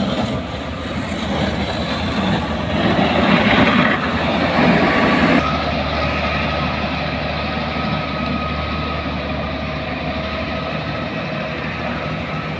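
Heavy road-construction machinery running, with the engine noise changing abruptly about five seconds in to a steadier low hum with a faint whine.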